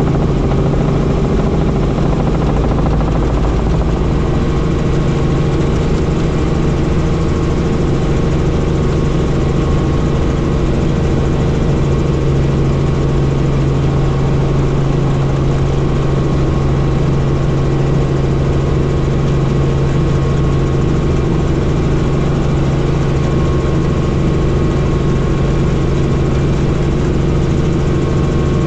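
Helicopter in flight: a loud, steady drone of engine and rotor, a strong low hum with a thin higher whine above it.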